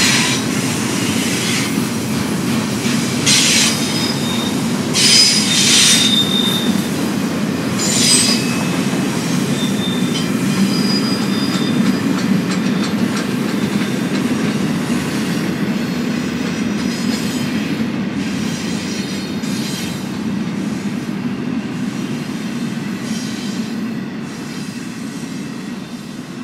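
Double-stack intermodal freight cars rolling past, wheels rumbling steadily on the rails, with several short high-pitched wheel squeals in the first half. The rumble fades near the end as the last cars pull away.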